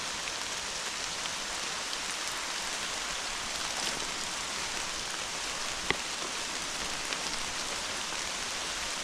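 Steady rain falling hard, a continuous hiss with scattered drops ticking close by. One sharp tap about six seconds in.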